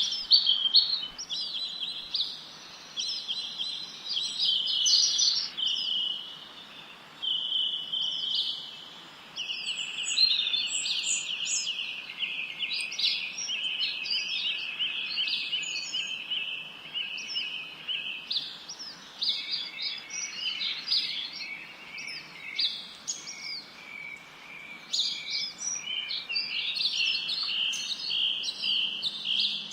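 Wild birds singing, several at once: overlapping high chirps and fast rapid-note trills with no break, over a faint steady background hiss.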